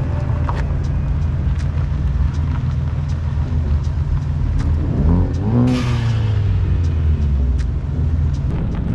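Car engine running with a steady low drone. About five seconds in, an engine revs up, rising in pitch, followed by a brief rush of noise.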